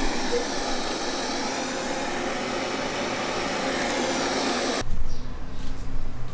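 Qihoo 360 S9 robot vacuum running with a steady whir. About five seconds in, the sound cuts abruptly to a low, uneven rumble.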